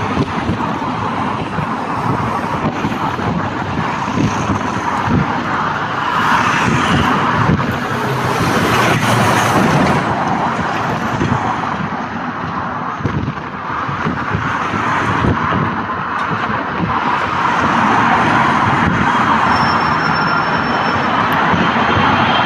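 Jet engines of a Turkish Airlines Boeing 777 coming in to land: a loud, continuous rushing noise that swells and eases in level.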